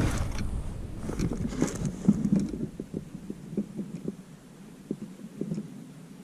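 Light clicks and rustling of small plastic parts being handled at a car's fuse box, as a fuse is pulled and a fuse tap fitted. The clicks are busy for the first couple of seconds, then thin to a few faint ticks.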